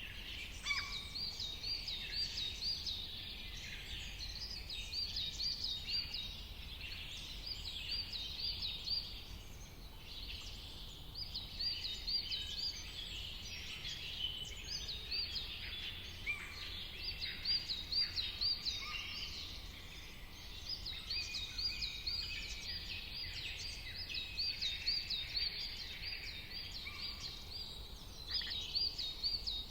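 Dawn-chorus style birdsong: several birds singing at once, with phrases of quick, high, repeated chirping notes coming every few seconds over a dense background of other calls. A steady low rumble runs underneath.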